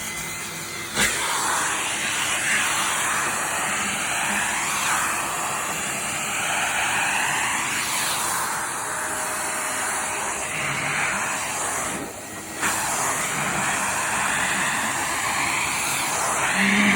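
Vacuum cleaner running steadily, its suction noise shifting in pitch as the nozzle works over socks, with a brief drop in level about twelve seconds in.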